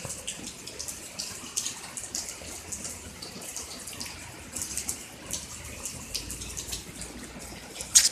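Heavy rain pouring in a thunderstorm, with water splashing and dripping close by in quick irregular ticks. One sharp tap stands out near the end.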